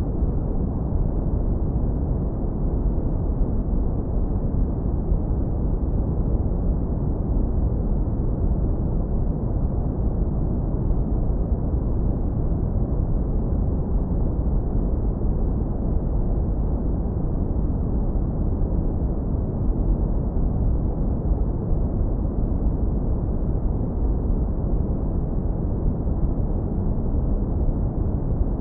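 Deep brown noise, electronically generated and low-pass filtered so that only a warm low rumble remains. It runs steady and unchanging, with nothing above the low end.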